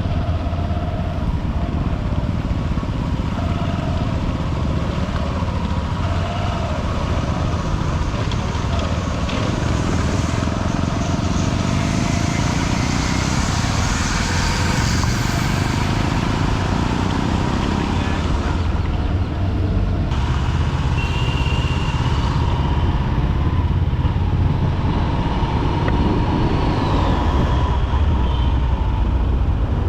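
Honda SP125's single-cylinder engine running steadily while riding through dense city traffic, with the noise of surrounding vehicles mixed in.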